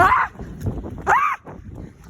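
A dog barking twice, once at the start and again about a second in, each bark a short high call that rises and then falls in pitch.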